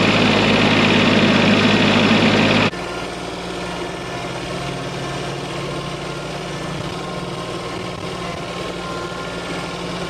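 Engine idling steadily. An abrupt cut about two and a half seconds in switches to a quieter, steady engine running.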